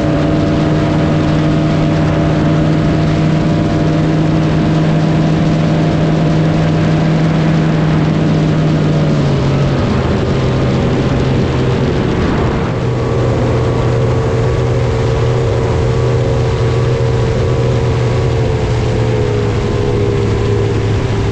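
Engine running at steady revs, then easing off to a lower, steady speed about nine seconds in.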